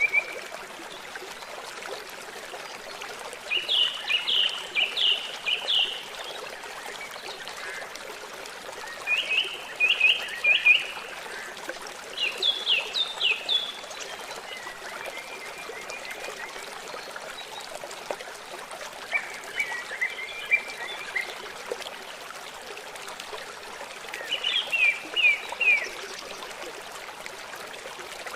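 A songbird singing short phrases of rapid, quickly repeated notes, one phrase every few seconds, over the steady rush of running water.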